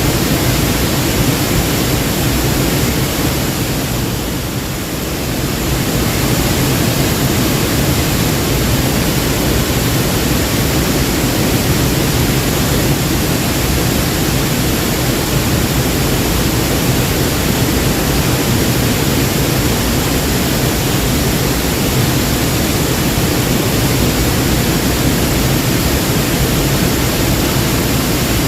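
Waterfall: a steady rush of falling water, dipping briefly in level about four to five seconds in.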